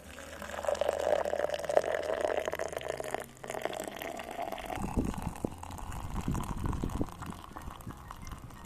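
Water being poured into a container for about five seconds, briefly interrupted partway through. Then come a few low knocks and bumps of gear being handled.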